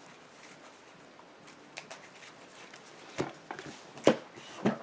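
Trading cards being handled on a table: soft rustling, then three sharp taps of cards set down in the last second and a half, the middle one loudest.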